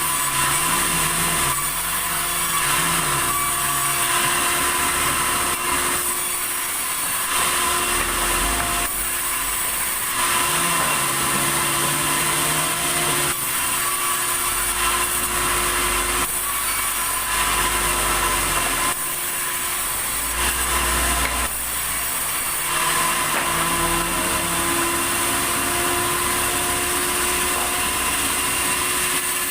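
Sawmill saw running and cutting red tasak timber: a steady mechanical whine and hiss, with the drive's deeper note rising and falling every few seconds as the load on the blade changes.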